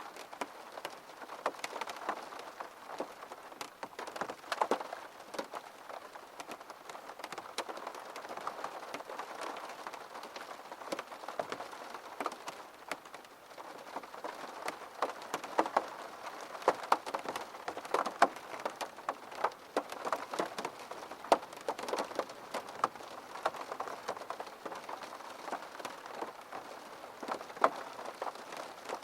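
Steady rain falling on a surface, with many close, distinct drops pattering and ticking throughout.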